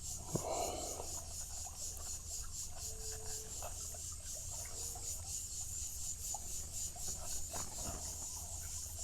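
Steady chorus of insects trilling, a high pulsing sound about four pulses a second, with a light knock about half a second in and scattered small clicks from hands handling things close by.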